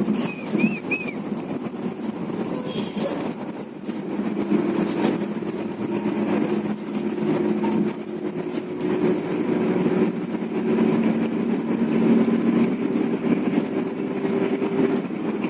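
Bus running along the road: continuous engine drone and road noise, with a steady engine hum that settles in about four seconds in.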